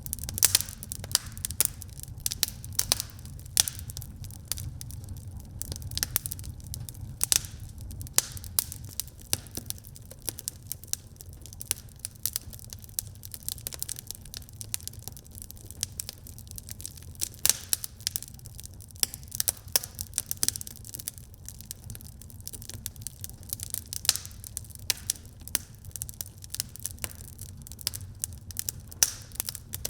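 Wood fire burning in a fireplace, crackling: many sharp irregular pops and snaps over a low steady rumble of the flames.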